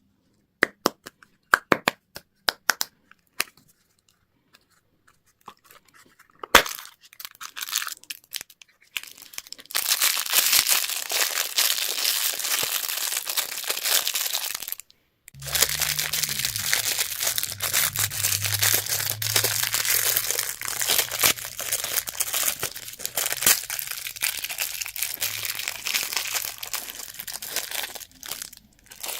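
Plastic wrapping crinkling and tearing as candy or surprise-toy packaging is opened, after a few sharp clicks at the start. From about halfway a low droning note sits under the crinkling.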